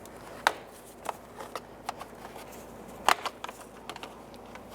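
Scattered clicks and knocks of a trim tool prying at a vehicle's plastic interior trim panel, with the loudest click about three seconds in.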